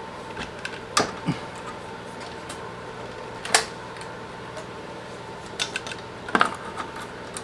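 A few scattered clicks and light knocks of metal parts and tools being handled during intercooler piping and clamp work, over a steady faint hum.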